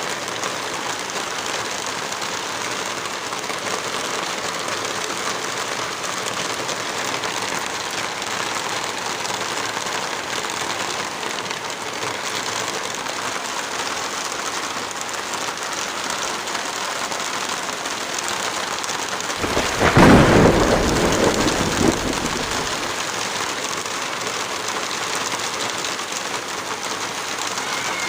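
Heavy rain falling steadily. About twenty seconds in, a brief low rumble lasting a few seconds rises over the rain and fades.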